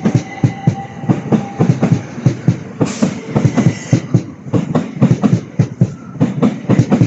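Southeastern Class 375 electric multiple unit running through the station, its wheels clacking rhythmically over rail joints and points in quick groups. The last of a fading horn tone trails off in the first couple of seconds.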